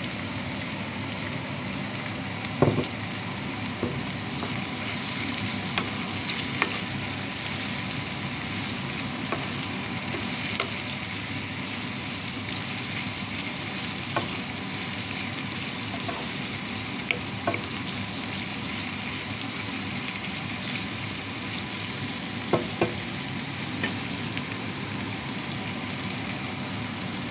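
Diced pork, onion and chili sizzling steadily in a frying pan as they are stirred with a wooden spatula, which knocks against the pan a few times.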